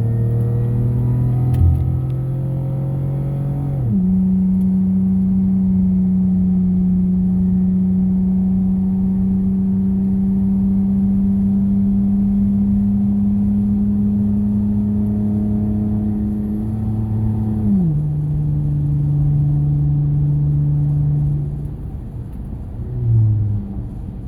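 Car engine running while driving, a steady hum that jumps up in pitch about four seconds in, holds there, then drops back down about eighteen seconds in, like gear changes.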